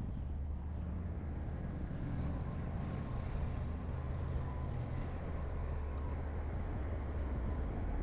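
Heavy diesel engine of earthmoving equipment running steadily under load, a continuous low drone with a faint whine above it.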